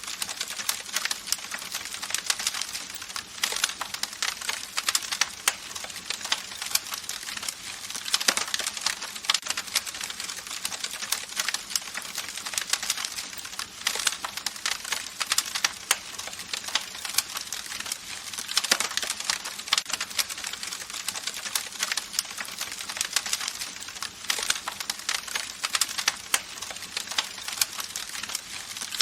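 Campfire crackling: a dense run of irregular small pops and snaps over a steady hiss, with no pauses.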